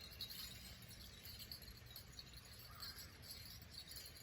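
Faint outdoor ambience: soft high chirping, repeated several times, over a low steady rumble.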